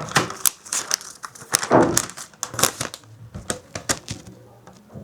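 Irregular crinkling and crackling with scattered sharp clicks, like something being handled close to the microphone; louder in the first two seconds, fainter after.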